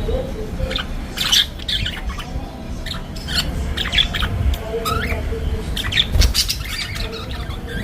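Budgerigars chattering: a quick, irregular run of short, sharp chirps and calls.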